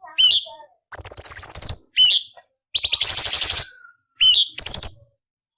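Orange-bellied leafbird (cucak cungkok) singing in about six short, quick bursts. The song mixes clear high whistles and rising notes with harsh, scratchy, rasping phrases; the longest and harshest come around the middle.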